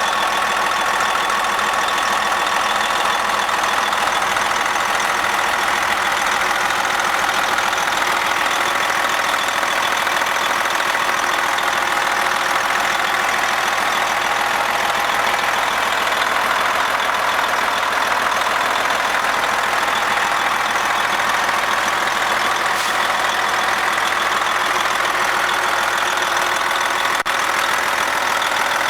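Detroit Diesel Series 60 12.7 L inline-six diesel engine idling steadily.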